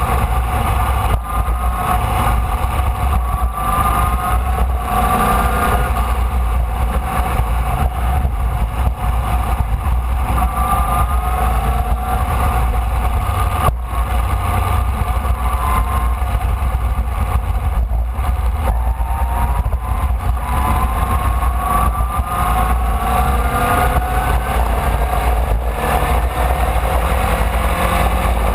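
Formula Vee's air-cooled Volkswagen flat-four engine heard onboard at racing speed, its pitch rising again and again as it pulls through the gears and dropping at each shift, over a heavy low rumble of wind on the microphone. A single sharp knock comes about halfway through.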